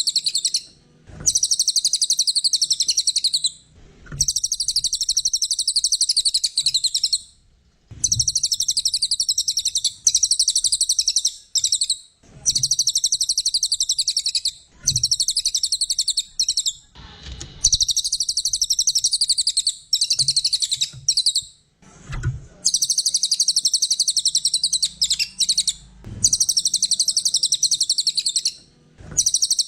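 Brown cililin singing: bout after bout of very fast, high chattering trills, each lasting a few seconds with short breaks between them, and a faint low knock at some of the breaks.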